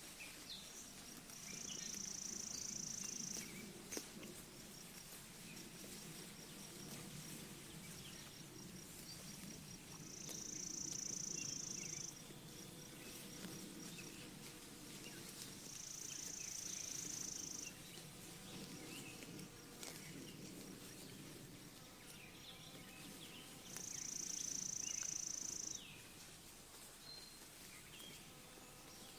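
Sheep pasture ambience. A high buzzing comes in four bursts of about two seconds each, with faint ticking between them. Short scattered bird chirps and a low rustling of grass run underneath.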